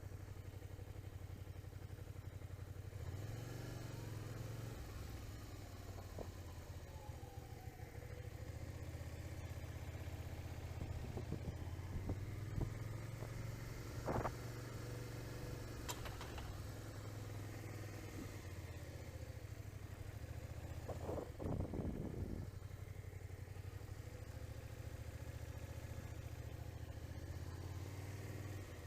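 Motorcycle engine running steadily, heard from a helmet camera while riding in traffic, its pitch drifting gently up and down, with a few short knocks partway through.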